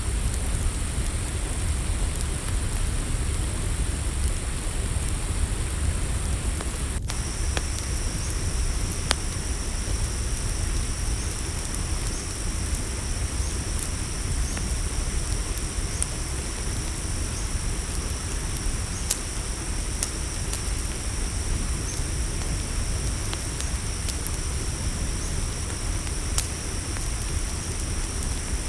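Campfire crackling, with scattered sharp pops over a low rumble, and crickets chirping steadily in high, thin tones; a second, lower cricket tone joins about a quarter of the way in.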